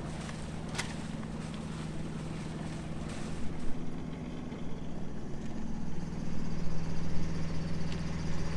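A sailboat's inboard engine running as the boat motors along, a steady low drone that grows louder about four seconds in.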